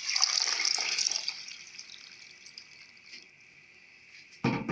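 Water poured into a hot pot of rice fried with vermicelli, hissing and sizzling loudly at first and dying away over the next couple of seconds. A single knock near the end.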